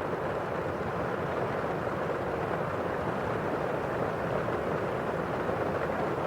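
Steady rain on a window: an even, unbroken hiss of rainfall with no single drops standing out.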